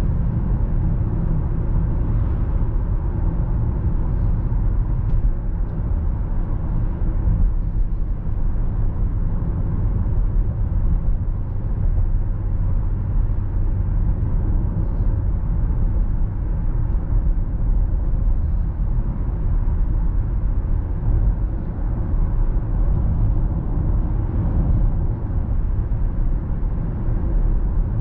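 Stock Range Rover Sport SVR's supercharged 5.0-litre V8 running at an even cruise on the road: a steady, deep drone with no big revs or gear-change blips.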